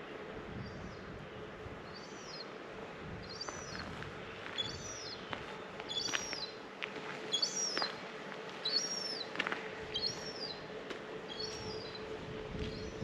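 A bird calling over and over, short arched high calls about once a second, louder in the middle of the series. A steady low hum runs underneath.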